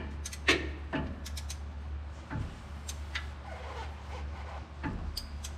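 Hand tools and metal parts being handled: a few scattered light clicks and knocks, the sharpest about half a second in, over a steady low hum.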